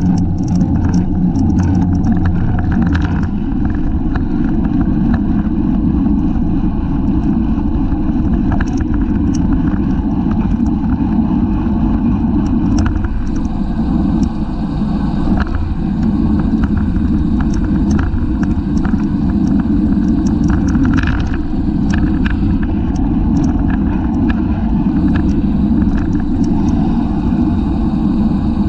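Steady wind noise and road rumble on a bicycle-mounted camera moving at race speed, with scattered small clicks and rattles.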